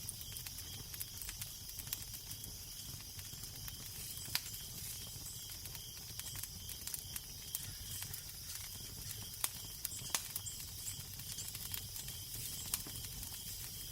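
Crackling fireplace fire: a steady hiss scattered with sharp snaps and pops, the loudest pops about four seconds in, twice around ten seconds, and near thirteen seconds, over a low steady rumble.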